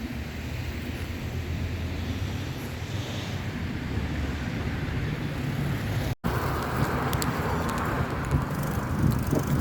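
Steady motor-vehicle noise: a low engine hum under a wash of road or wind noise. It cuts out for a moment about six seconds in, then carries on with more hiss.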